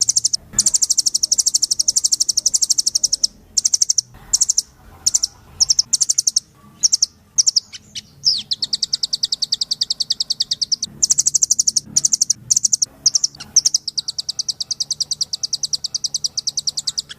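Rambatan loreng (nuthatch) singing in loud, very rapid high-pitched trills of repeated notes. Long trills near the start and the end are broken into short phrases in the middle.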